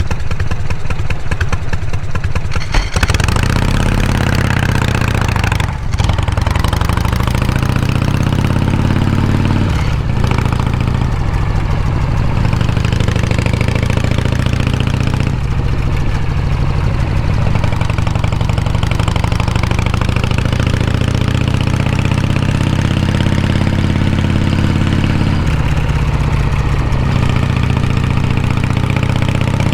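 Harley-Davidson Shovelhead V-twin motorcycle engine, running low and even for the first few seconds, then pulling up in pitch and dropping back several times, with a steadier stretch in the middle.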